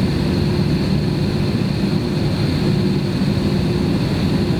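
Steady jet engine and airflow noise heard from inside the cabin of an Airbus airliner, an even, low-heavy noise with a faint steady hum and no change in level.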